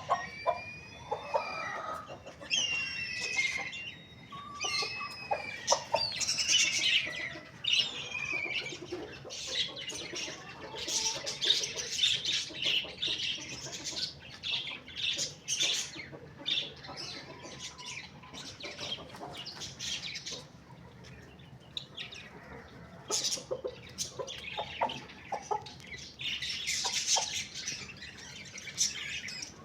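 Small birds chirping and twittering in busy bursts of short, high calls.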